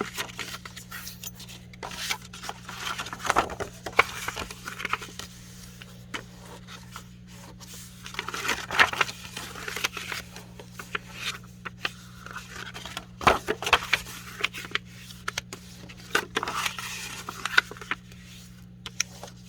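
Sheets of cardstock being folded and back-folded along their creases: irregular scraping and rubbing of paper, with sharp crinkles and taps as the card is creased and handled, over a steady low hum.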